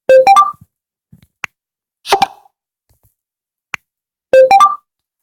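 Smartphone playing short alert-tone previews: a quick bubbly blip of a few rising notes, heard three times about two seconds apart, the first and last the same tone. Faint taps sound in between.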